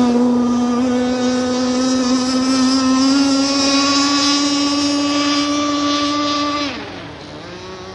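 RC racing catamaran at full speed on a speed pass, its drive giving a loud, steady high-pitched whine that creeps slightly upward. About seven seconds in, the pitch slides down and the sound falls away.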